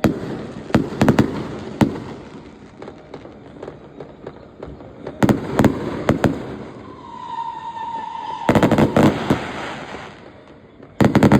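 Fireworks going off: scattered sharp bangs, then a whistle about seven seconds in followed by a burst of rapid crackling, and another volley of bangs near the end.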